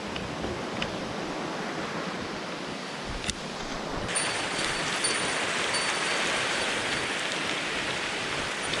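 Mountain stream water rushing steadily, growing louder and brighter about four seconds in, with a single sharp click a little after three seconds.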